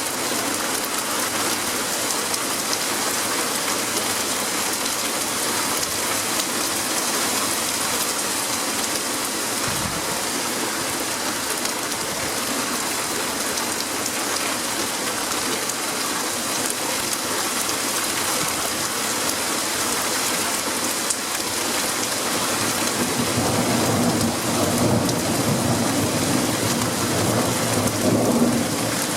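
Rain falling steadily during a thunderstorm, with a low rumble of thunder swelling over the last several seconds.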